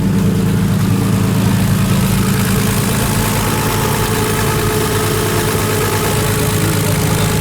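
Nissan RB25 turbocharged straight-six in an S13 240SX drift car, idling steadily.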